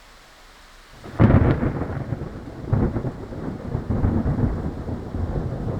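Heavy rain with wind buffeting the microphone: a faint hiss, then about a second in a sudden loud, rough rumbling that keeps churning.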